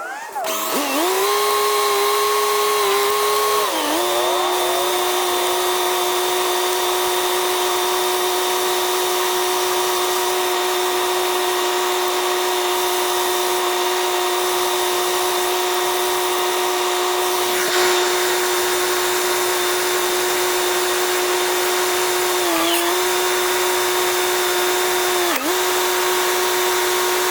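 A high-speed power tool motor spinning up and running steadily with a whine, its pitch sagging briefly about four seconds in and twice near the end.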